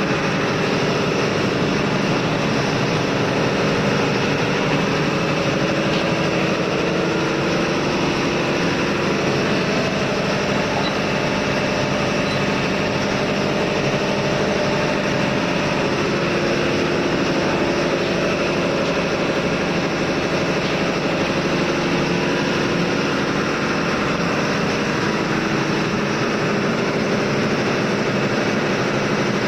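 Steady, loud drone of diesel machinery running in a ship's engine room, an even hum with several steady tones and no change throughout.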